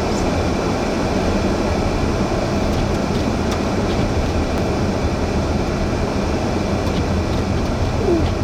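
Steady road and wind noise of a car driving a snowy highway in a blizzard, heard from inside the cabin, with a few faint ticks.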